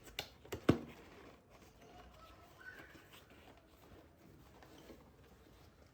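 A few light knocks and clicks of household items being handled, the loudest less than a second in, followed by faint small handling sounds.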